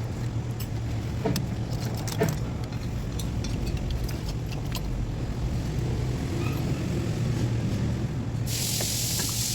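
Scattered metallic clinks and knocks of tools and parts being handled during a car engine repair, over a steady low hum, with a loud hiss lasting about a second near the end.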